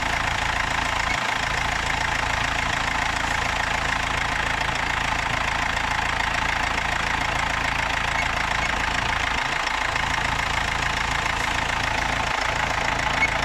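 Mercedes Sprinter's common-rail diesel engine idling steadily. It is running again after a crank-no-start fault, traced to the fuel rail pressure sensor circuit.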